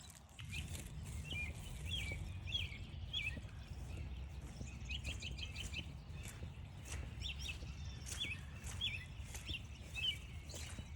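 Repeated short chirping calls, about two a second, with a brief rapid run of notes about five seconds in, over a steady low rumble.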